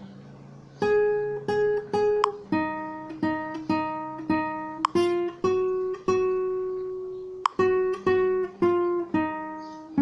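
Acoustic guitar played solo: a slow series of plucked chords or notes, each struck sharply and left ringing to fade, about two a second after a short pause at the start, with one longer ringing note in the middle.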